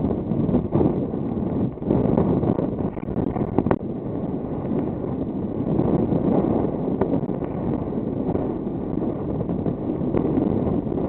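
Strong wind buffeting the microphone: a gusty, low rumble that swells and dips from moment to moment.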